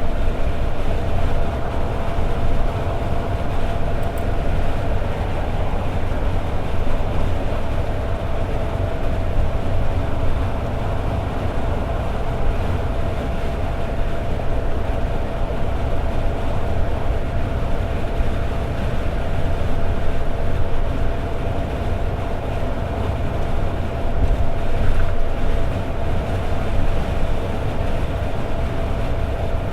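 Toyota AE86 Sprinter Trueno cruising at steady highway speed: its inline-four engine holds a constant drone over heavy road and tyre rumble.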